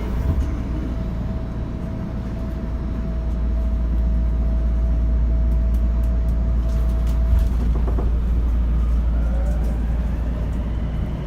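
Interior running sound of a Tokyo Metro 02-series subway car: a steady low rumble with a constant hum that stops partway through, and a couple of knocks about seven seconds in. Near the end the traction inverter and motor whine begins to rise as the train starts accelerating.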